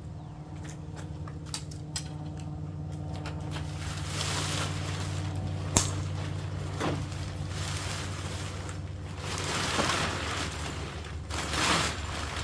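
Nylon tent fabric rustling and swishing as a shock-corded tent pole is pushed through its sleeve, with one sharp click about halfway through. A steady low hum runs underneath.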